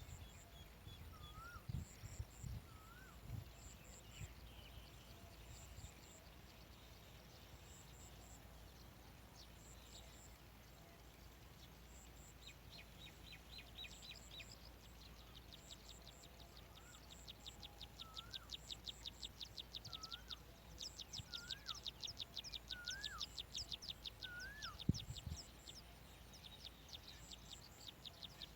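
Faint background birds calling: a series of short up-and-down whistled notes, repeated thin high chips, and a rapid dry ticking trill through the second half.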